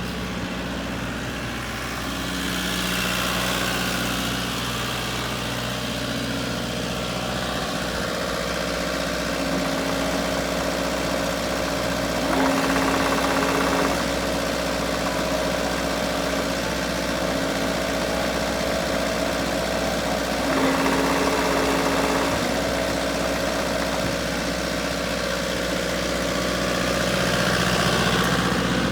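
JCB 85Z-1 midi excavator's diesel engine running steadily, its pitch changing about a quarter of the way in and briefly louder twice further on.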